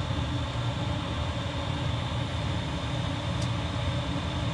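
Diesel air heater running: a steady fan hum with a faint, thin, high whine on top, as it draws cabin air in through its return-air intake.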